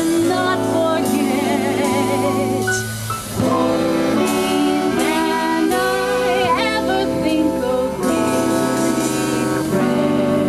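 Swing band music.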